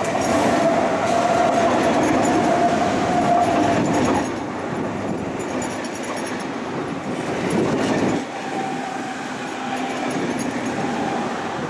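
Passenger train running on the rails, heard from inside the carriage: a steady rumble and wheel noise with a held whine for the first few seconds. The sound drops a step about four seconds in and again about eight seconds in.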